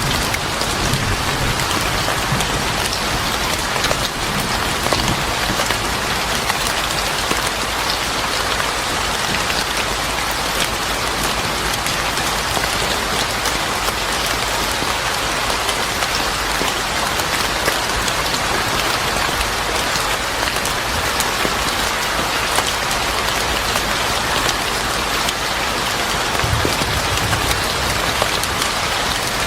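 Steady heavy rain pattering on a surface, with a low rumble of thunder coming in near the end.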